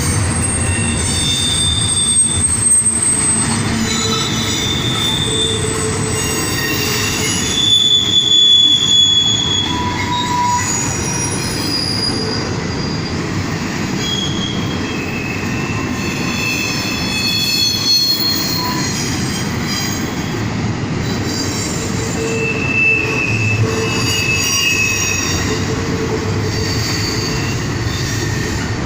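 CSX intermodal freight train rolling past: a steady rumble of wheels on rail, with the wheels squealing on and off throughout in short high tones that keep changing pitch.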